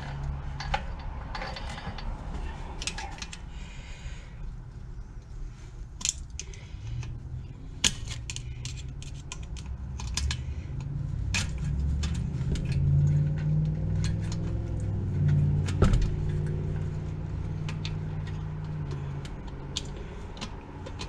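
Scattered metallic clicks and clinks of hand tools working at the valve springs in an old 12 hp Briggs & Stratton engine block. A low hum comes in about a third of the way through and fades near the end.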